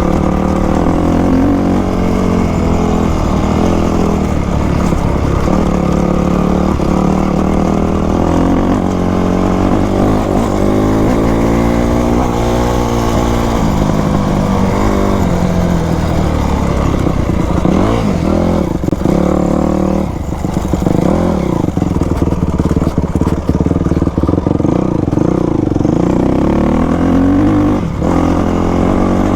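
Yamaha YZ250 two-stroke dirt bike engine running while being ridden, its pitch rising and falling again and again as the throttle is opened and closed.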